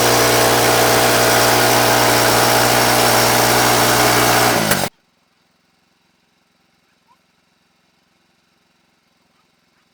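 Engine running steadily at a constant speed, then cutting off abruptly a little under five seconds in, leaving near silence.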